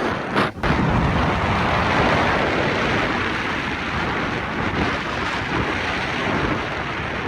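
Strong gale-force wind buffeting the microphone: a loud, continuous rushing and rumbling, with a brief dip about half a second in.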